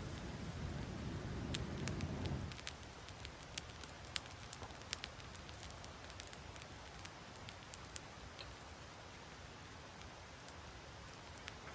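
Wood campfire crackling with scattered sharp pops, after a low rumble in the first couple of seconds.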